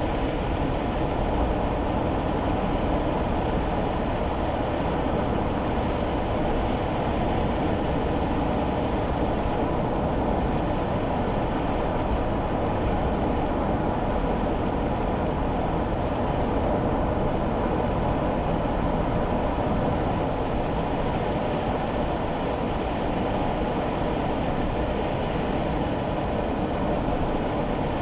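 Steady road noise inside a kei car's cabin while driving: tyres on a wet road with the engine's low rumble beneath, an even sound with no distinct events.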